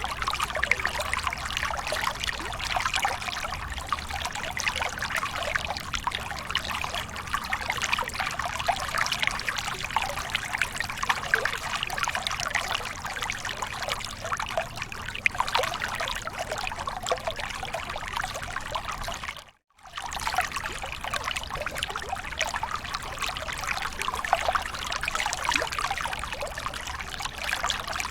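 Waterfall: water pouring and splashing steadily, with a bright, trickling texture. The sound drops out completely for an instant about two-thirds of the way through.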